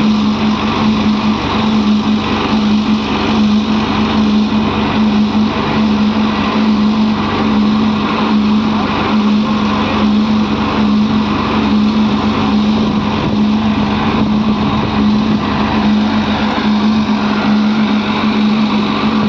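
Heavy diesel engine running steadily with a strong hum and a slight regular pulsing, from the backhoe loader or tractor loading soil.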